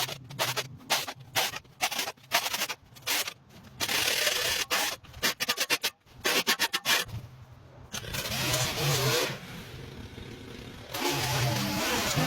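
Repeated quick scraping strokes, a tool scraping grass and dirt off driveway pavement. From about eight seconds in, a steady running motor with a low hum joins.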